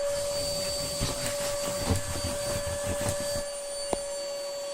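700 W Hoover Spritz compact vacuum cleaner running with a steady motor whine, its nozzle rubbing and knocking irregularly as it is pushed about for the first three seconds or so. A single sharp knock comes just before the end.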